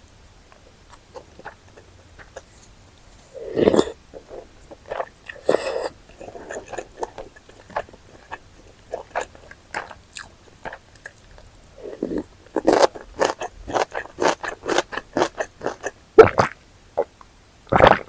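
Close-miked mukbang eating sounds: irregular wet chewing and biting of spicy chicken intestine stew, with a few louder bites and a quick run of chewing in the second half.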